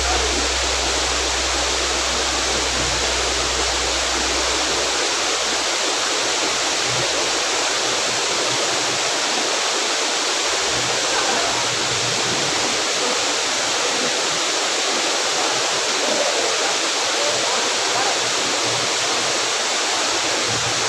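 Steady, continuous rush of a waterfall. A low hum underneath fades out during the first five seconds.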